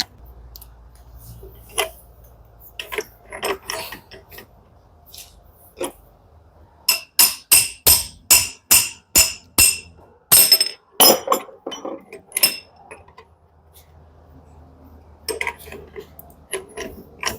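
Metal tool working on a tumble dryer's pulley nut: scattered knocks, then about seven seconds in a regular run of about ten sharp, ringing metallic taps, roughly three a second, followed by a few more.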